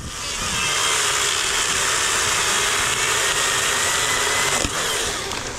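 Chainsaw cutting through hardwood at full throttle, a steady run of about five seconds that eases off near the end.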